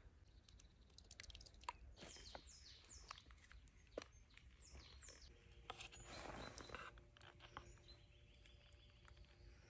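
Faint bird calls, two runs of quick falling chirps, over a quiet outdoor background with scattered small clicks and a short rustle a little past the middle.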